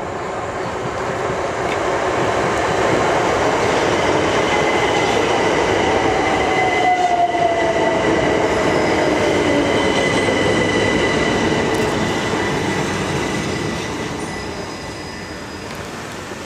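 Southern Class 377 Electrostar electric multiple unit passing along the platform. The noise swells as it approaches, stays loud while the carriages go by, and fades as it draws away. A thin high steady tone runs through the middle, and a whine falls in pitch near the midpoint.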